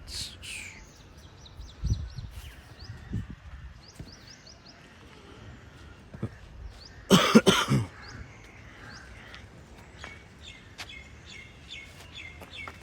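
Small birds chirping over and over in short, high, falling notes. About seven seconds in comes one loud, rough burst lasting under a second, like a cough or snort.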